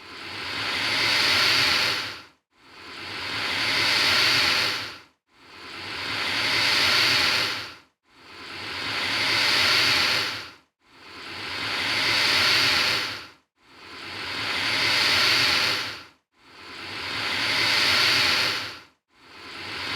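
Alligator hissing: the same long, breathy hiss repeated over and over, about one every two and three-quarter seconds, each swelling and then fading into a brief silence before the next.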